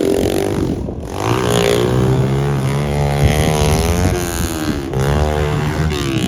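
Small-displacement pit bike engine revving up and down repeatedly as the bike is ridden, its pitch rising and falling every second or so, with brief lifts of the throttle about a second in and near five seconds.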